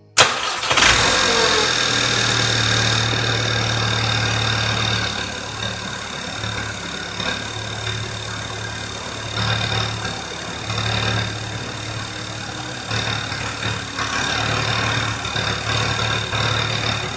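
Audi 1.8 TFSI turbocharged four-cylinder engine starting on a brief crank, its first start after a crash rebuild. It runs a little higher for the first few seconds, then settles into a steady idle with a thin high whine over the engine hum.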